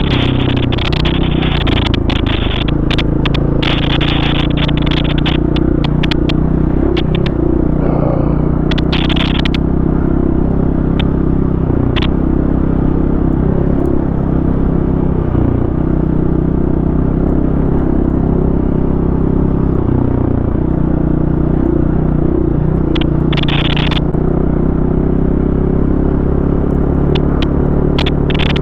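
Four-stroke single-cylinder enduro dirt bike engine running on a trail ride, its pitch rising and falling with the throttle. Sharp clicks and clatter from the bike and stones come through over it, with brief bursts of hiss now and then.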